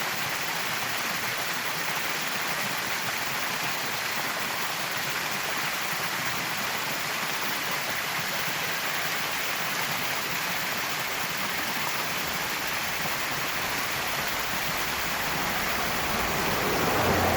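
Small roadside waterfall spilling out of a boulder at the base of a living western red cedar: steady rushing, splashing water. The flow is new runoff from weeks of atmospheric-river rain. A low rumble builds near the end.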